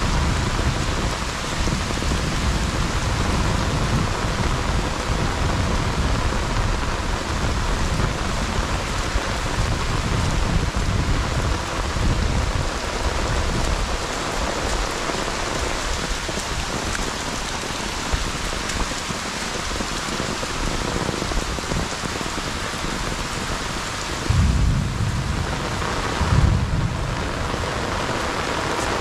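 Heavy rain falling steadily on a rice paddy and grass, an even hiss. Underneath, a low rumble comes and goes, and there are two short low bumps near the end.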